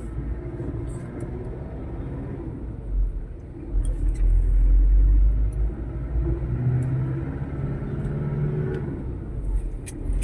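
Vehicle driving: a steady low rumble of engine and road noise that grows louder about four seconds in and eases off again a couple of seconds later.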